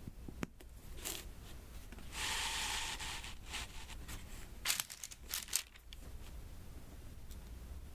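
Diamond-painting work on a sticky adhesive canvas: a peeling, tearing sound lasting about a second, then a few sharp little taps and clicks of the drills and tool on the canvas.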